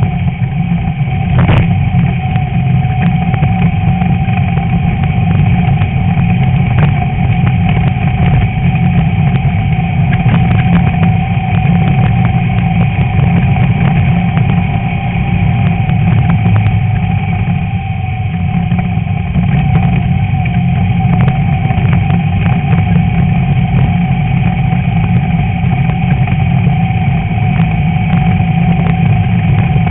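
Class 11 VW Beetle's air-cooled flat-four engine running hard and steady while racing, with scattered sharp clicks and knocks, the strongest about a second and a half in. The engine eases briefly about eighteen seconds in.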